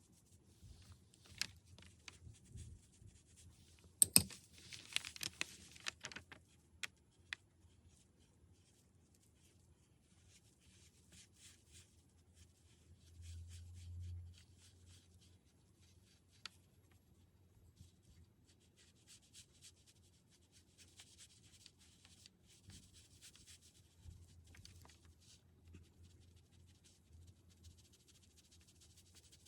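Brush strokes rubbing on paper, faint, in short scratchy passes, with scattered light taps and clicks and one sharper click about four seconds in.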